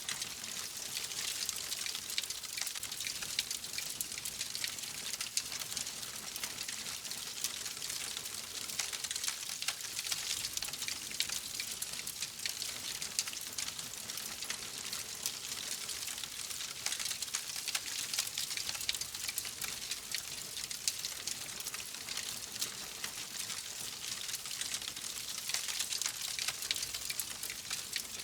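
Wood fire crackling steadily in a fireplace: a dense run of small pops and snaps over a soft hiss, with no big pops standing out.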